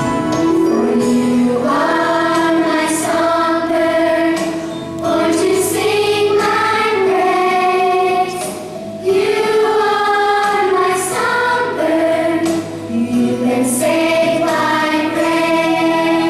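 Children's choir singing a song in long held phrases, with short breaks between phrases.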